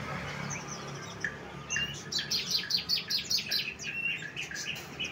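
Songbird singing: a few scattered high notes, then from about two seconds in a fast run of short, sharp chirps, about four or five a second, mixed with brief whistles.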